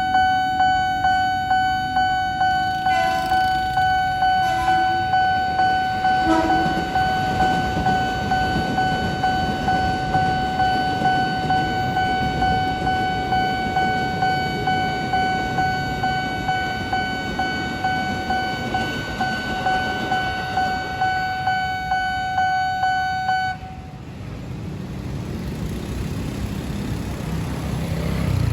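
Electronic railroad crossing bell ringing a steady repeating tone at about two strokes a second, then cutting off suddenly near the end; a train rumbles past, with a few short horn toots early in the sound.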